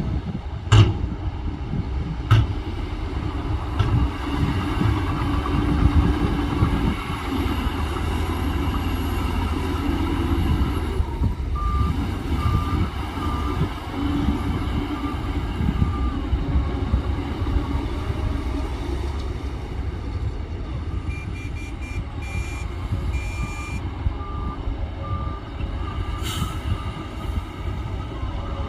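Diesel engines of heavy earthmoving machinery running steadily, with a couple of sharp knocks in the first few seconds. A reversing alarm beeps repeatedly partway through and again over the last third, at a higher pitch and then a lower one.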